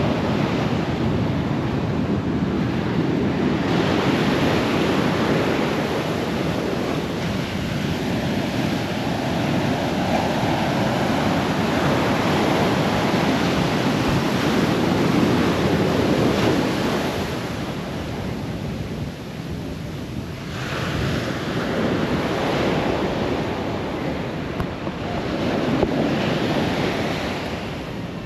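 Ocean surf washing onto the beach, swelling and easing every few seconds, with wind buffeting the microphone.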